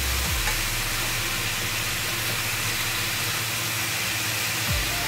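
Chicken and black fungus sizzling steadily as they stir-fry in a hot pan.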